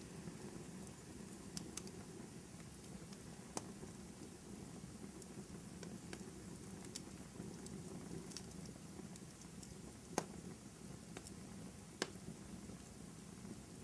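Wood fire burning in a fireplace: a steady low rush of flames with scattered sharp crackles and pops, two louder pops near the end.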